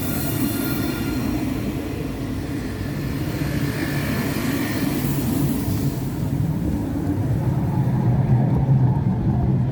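Tram running with a steady low rumble, a faint whine in the first second or so, and the rumble getting louder near the end.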